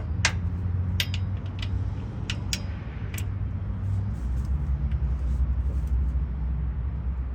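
Sharp metallic clinks of tools and bolts, about eight over the first three seconds, against a steady low mechanical rumble.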